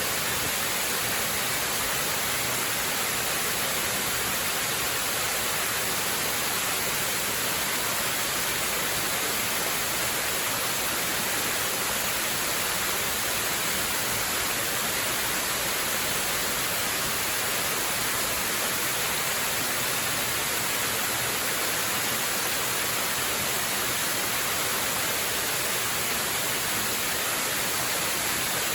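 Waterfall, its falling water making a steady, unchanging hiss.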